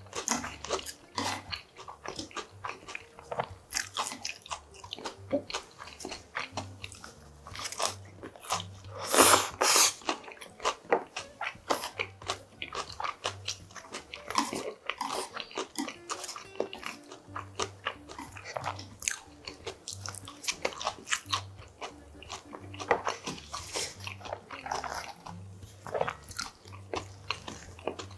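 Close-miked eating: biting and chewing crispy potato pancake (gamjajeon), a dense run of short crunches and wet mouth clicks, with a louder stretch about nine seconds in.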